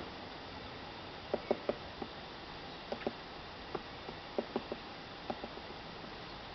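Woodpecker pecking at wood: about a dozen sharp, irregular taps, singly and in quick groups of two or three, not a fast drum roll. The pecking is typical of a woodpecker foraging or chiselling into the tree.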